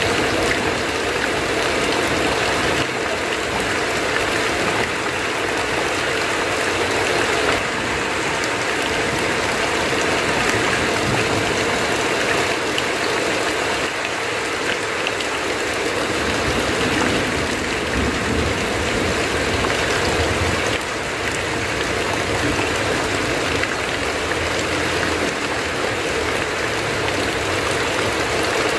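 Heavy rain falling steadily on a tin roof, with water pouring off the roof's edge: an even, unbroken rush.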